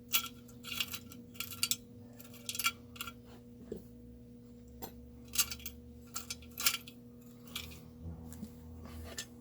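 Small metal chainsaw parts and hand tools clinking and tapping together as they are handled: about a dozen light, irregular clinks.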